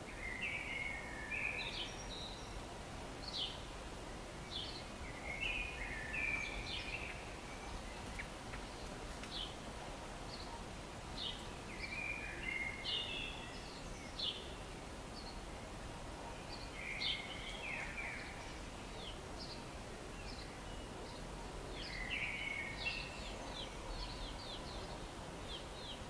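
A songbird singing about five short phrases several seconds apart, with single sharp high notes between them, over a steady background hiss.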